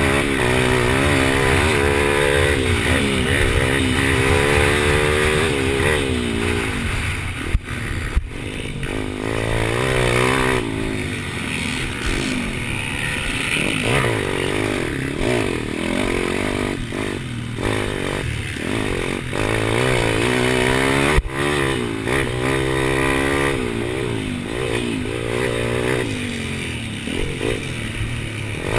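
Pit bike's small single-cylinder engine racing, its pitch repeatedly climbing on the throttle and dropping off again through the turns. There are a couple of sharp knocks, one about eight seconds in and one near twenty-one seconds.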